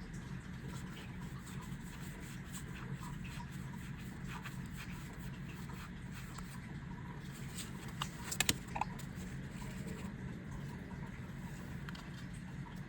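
Yu-Gi-Oh! trading cards and booster packs being handled: soft scrapes of cards sliding against one another, with a quick cluster of sharp clicks about eight seconds in. A steady low hum runs underneath.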